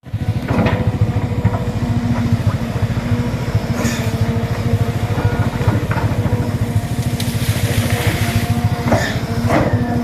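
Excavator's diesel engine running steadily with a constant hydraulic whine over it, and several sharp knocks along the way.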